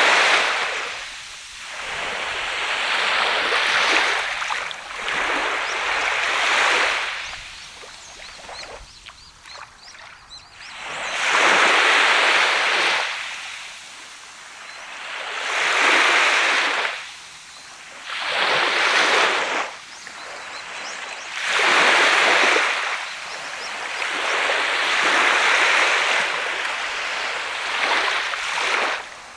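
Sea of Japan surf breaking on a sand beach and washing back, the hiss swelling and falling away every three to four seconds. There is a quieter lull about eight to ten seconds in before the waves pick up again.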